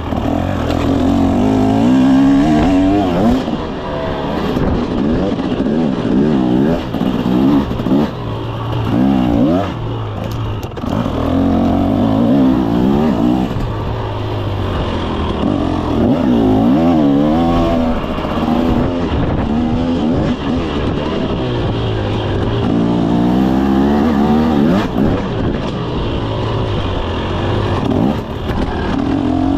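2024 KTM 300 SX two-stroke dirt bike engine under way, its pitch climbing and dropping back again and again every few seconds as the throttle is opened and rolled off.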